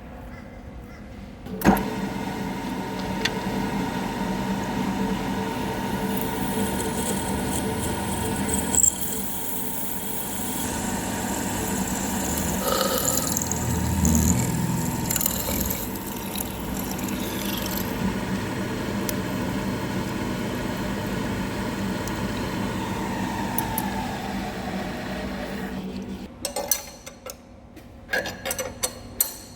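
A milling machine spindle runs as it cuts into a hardened steel machinery pin, a steady hum under the cutting noise, then winds down and stops near the end, followed by a few short metal clinks.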